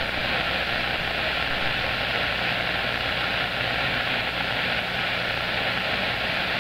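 CB radio receiver static: a steady hiss from the radio's speaker with a low hum underneath, the sound of an open 27 MHz channel between skip transmissions.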